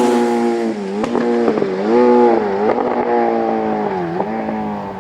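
Racing motorcycle at high revs passing and pulling away. Its engine pitch drops as it goes by, then dips and rises again about four times, and the sound grows fainter toward the end.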